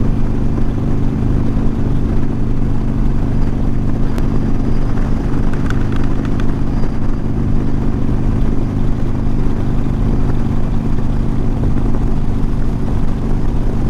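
2021 Harley-Davidson Iron 1200 Sportster's air-cooled 1200 cc V-twin running steadily at highway cruise, heard through a lav mic inside the rider's helmet.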